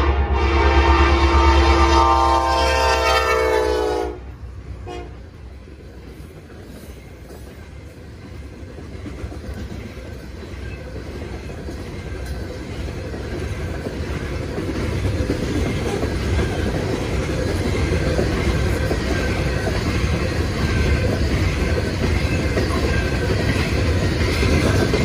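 Norfolk Southern SD70ACe diesel locomotive's air horn sounding for the grade crossing, a long chord that cuts off suddenly about four seconds in, with a brief short blast about a second later. Then loaded coal hopper cars roll past on the rails, the rumble growing louder and then holding steady.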